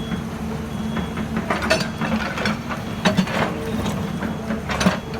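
Heavy machine's diesel engine running steadily, with several sharp knocks and clanks of its working parts, the loudest about three seconds in.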